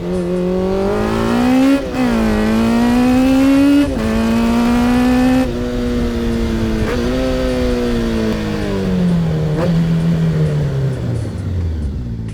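A motorcycle engine accelerating hard, its pitch climbing and dropping sharply at two upshifts. Over the second half the engine note falls steadily as the bike slows.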